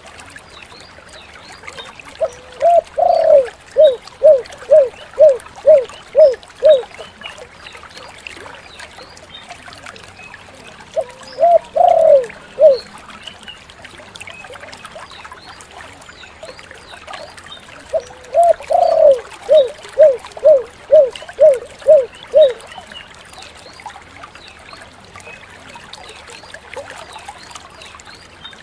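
Spotted dove (tekukur) cooing in three phrases. Each opens with a longer coo that rises in pitch. The first and last phrases run on into about seven short, evenly spaced coos, while the middle phrase stops after its opening.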